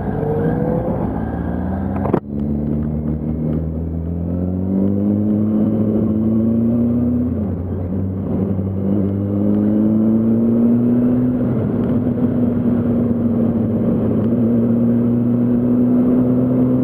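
Motorcycle engine pulling away under acceleration, its pitch rising, dropping at a gear change, rising again, then holding at a steady cruise. There is an abrupt break in the sound about two seconds in.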